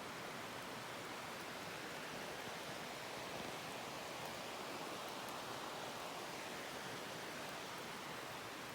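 Steady rushing of a mountain stream, an even wash of water noise without pauses.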